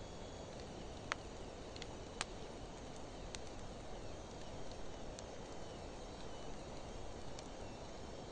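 A wood fire of driftwood mixed with dry hardwood burning steadily: a low, even rush of flame with scattered sharp crackling pops, the two loudest about one and two seconds in.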